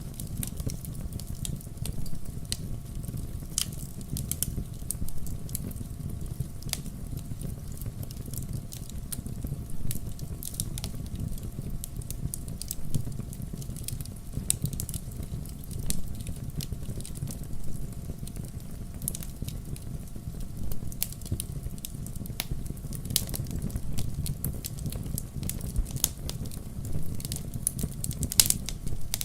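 Wood fire crackling in a fireplace: frequent sharp pops and snaps over a steady low rumble of the flames, with one louder pop near the end.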